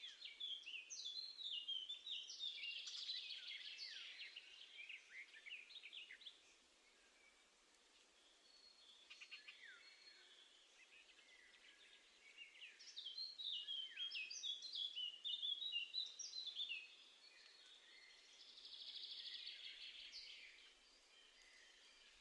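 Wild songbirds singing outdoors, faint: a long run of quick high chirping notes at the start, another about halfway through, and a short dense trill near the end.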